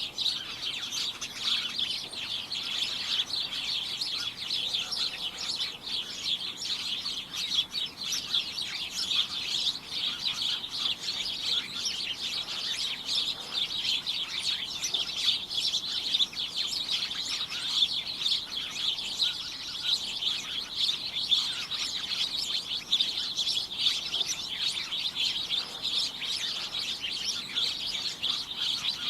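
A group of small birds chirping continuously, their many short calls overlapping into a dense, high-pitched chatter.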